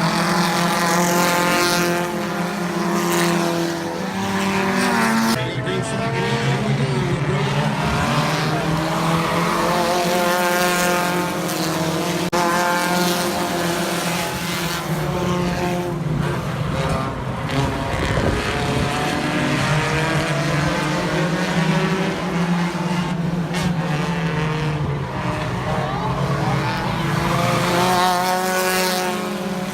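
Stock cars racing around a short oval, their engines revving up and easing off again and again as the pack accelerates down the straights and lifts into the turns.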